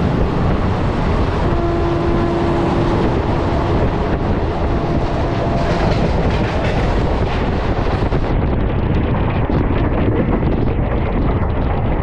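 A train running along the track: a steady loud rumble of wheels on rails, with a faint steady whine from about two seconds in that lasts around four seconds.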